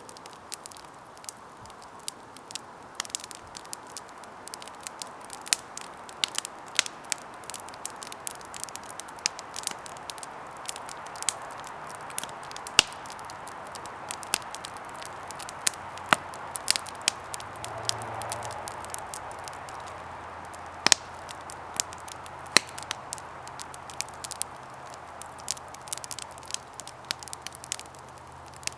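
Campfire burning: wood crackling in sharp, irregular snaps over a steady hiss of the flames, with the hiss swelling briefly about two-thirds of the way through.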